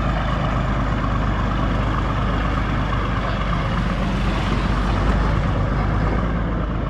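Diesel truck engine running steadily with a low, even drone.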